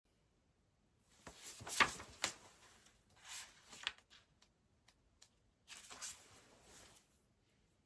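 Three bursts of rustling with sharp clicks and light taps, the loudest click about two seconds in, and scattered small ticks between the bursts.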